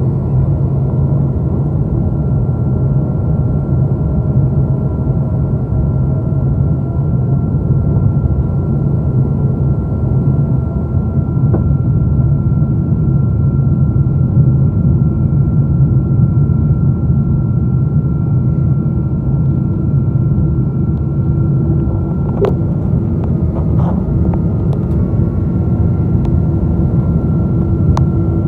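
Steady cabin noise inside a Boeing 777-222 airliner: ventilation air and aircraft systems humming, with a thin steady whine over it. A few sharp clicks come near the end.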